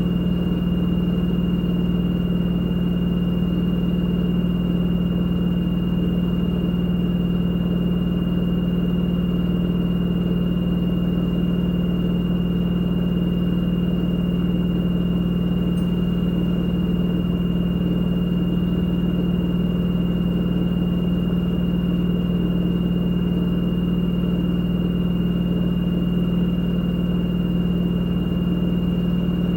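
LG direct-drive washing machine drum spinning during a spin-only cycle, a steady unchanging hum with a thin high whine above it.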